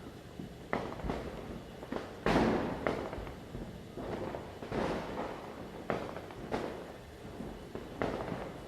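Firecrackers bursting at irregular intervals, about ten sharp bangs of varying loudness with echoing tails; the loudest comes a little over two seconds in.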